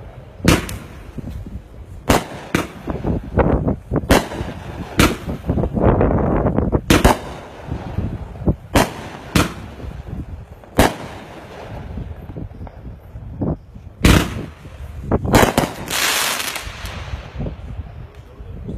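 Multi-shot firework cakes firing: a string of sharp bangs at irregular spacing, roughly one a second, over a low rumble, with a denser burst of hiss near the end.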